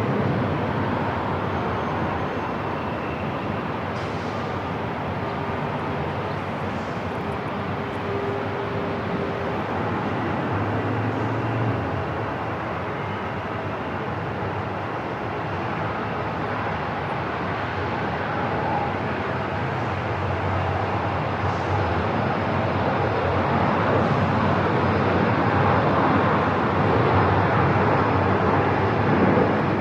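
Airport ambience: a steady wash of noise with a few faint passing tones, growing slightly louder near the end.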